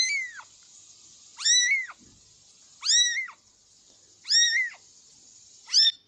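A cat meowing five times, one call about every second and a half, each rising and then falling in pitch.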